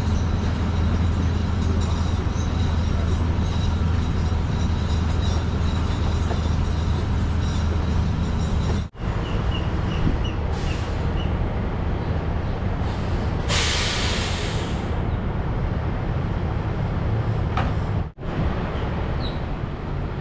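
Heavy diesel engine running steadily with a low hum, with a loud hiss of air for about a second and a half near the middle. The sound drops out sharply twice.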